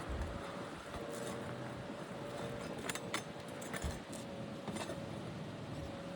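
Metal tool clinks and scrapes on a shingle roof while overdriven nails are pried out of asphalt shingles, with a few sharp clicks scattered through. A faint steady hum runs underneath.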